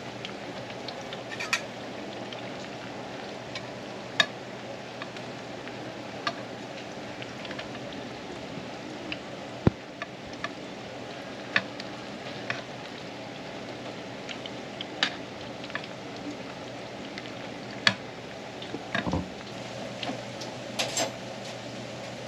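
Fishcake hotteok frying in shallow oil, a steady sizzle, with scattered sharp clicks and taps of a metal hotteok press and spatula against the pan, a few close together near the end.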